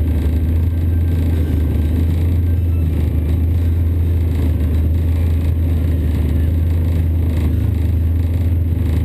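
1988 Honda Civic demo car's engine idling steadily, a low, even hum heard from inside its gutted cabin.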